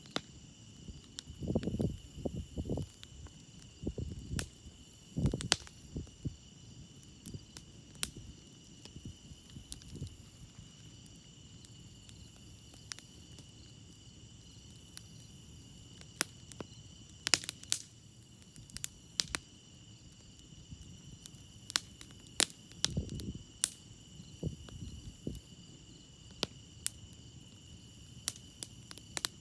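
Wood fire crackling with sharp, irregular pops over a steady high chorus of crickets. There are a few soft low rumbles near the start and again about two-thirds of the way through.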